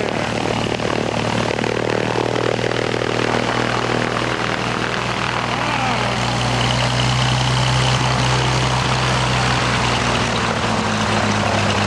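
Propeller airplane engine running steadily at low power with a constant low hum, as the plane idles after arriving.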